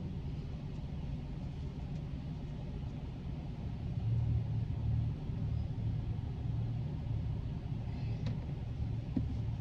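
Steady low rumble of a car heard from inside its cabin, growing a little louder about four seconds in.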